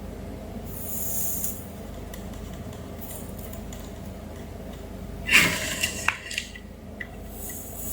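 A brief clatter and a few sharp clicks of small hard objects being handled, a little over five seconds in, over a steady low electrical hum.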